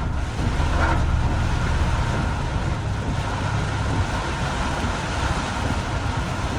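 Steady noise of a car driving on a rain-soaked road in heavy rain, with a continuous low engine and tyre rumble under a hiss of water.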